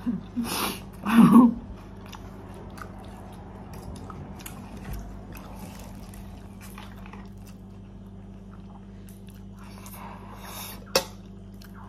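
A person chewing spicy ramen noodles, with a couple of louder short mouth sounds in the first second and a half, then quieter chewing with small wet clicks and a sharp click near the end.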